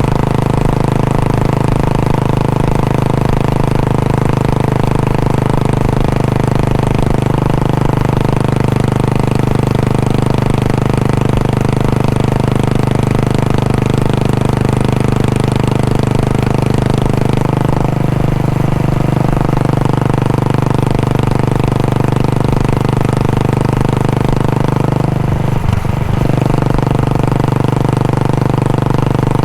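Royal Enfield Bullet 500's single-cylinder four-stroke engine idling steadily through its exhaust, with a brief disturbance near the end.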